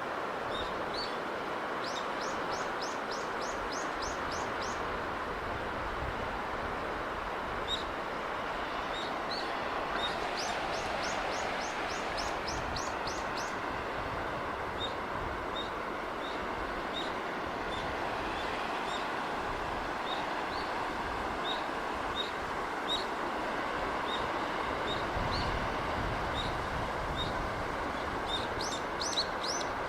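Steady rushing of sea breeze, with small birds chirping over it: scattered single chirps and a few quick trills of rapidly repeated high notes, near the start, around the middle and near the end.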